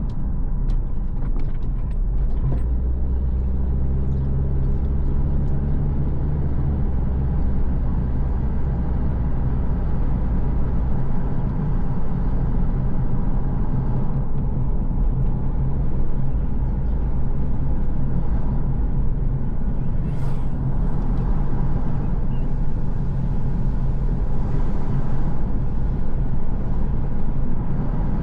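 A car being driven: a steady low rumble of engine and road noise, with an even engine hum for the first ten seconds or so and a short hiss about twenty seconds in.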